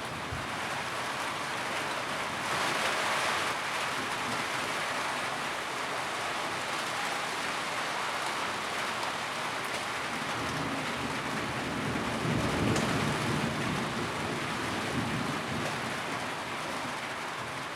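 Steady rain drumming on a tin roof, with a low rumble swelling about halfway through.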